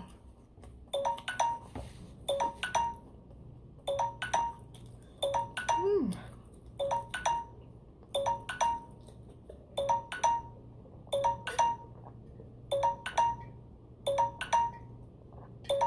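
Electronic alarm chime: a short ding figure at two pitches, one low and one high, repeated about every second and a half, about ten times.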